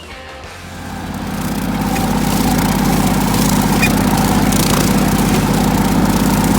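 Tractor engine running, building up over the first two seconds and then holding steady and loud.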